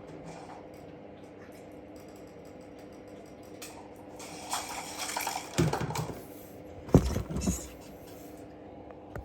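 Water poured into a snake's water bowl for about two seconds, then several sharp knocks, the loudest about seven seconds in, over a steady low hum.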